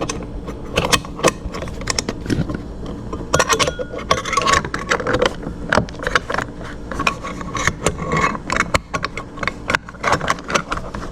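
Irregular metallic clicks, taps, scrapes and rattles of a screwdriver and small metal parts being fumbled in a tight spot under a dishwasher while trying to start a small screw.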